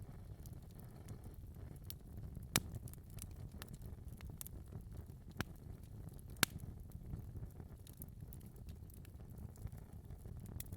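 Wood fire burning in a fireplace: a low steady rumble of flames with scattered sharp crackles and pops, the loudest about two and a half seconds in and again just over six seconds in.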